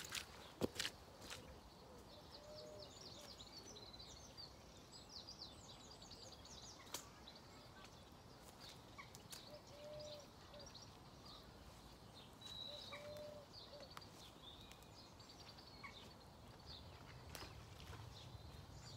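Faint chattering of a group of birds, thought to be magpies: many quick, harsh calls, busiest in the first half and thinning out later. A few soft knocks near the start and about seven seconds in.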